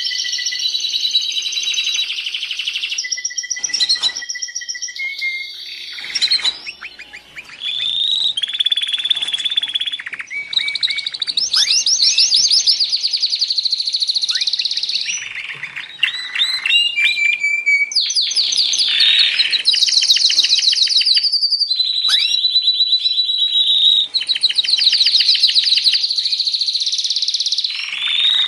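Domestic canary singing a long, continuous song of rapid trills and rolls, with some held whistled notes. There is a brief lull about seven seconds in.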